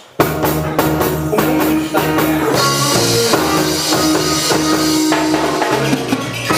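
Live reggae band starting a song: drum kit and guitar come in together right at the start, playing a steady instrumental intro.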